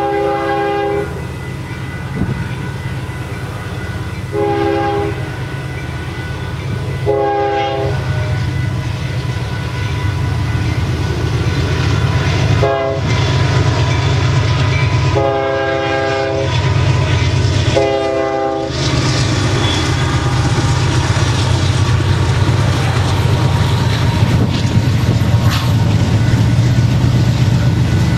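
Union Pacific intermodal freight train passing, with a steady rumble and clatter of wheels on rail that grows louder. The locomotive's multi-note air horn sounds several times over it: a long blast at the start, two short ones a few seconds in, a brief toot about halfway, then two longer blasts a few seconds after that.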